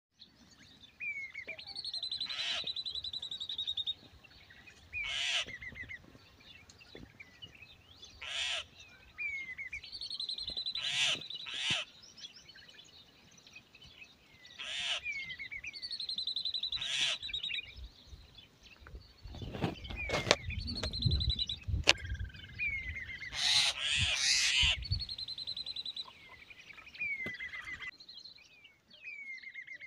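Birds calling again and again: a fast high trill with short falling chirps, repeating every few seconds. A stretch of low rustling or rumbling comes through from about twenty to twenty-five seconds in.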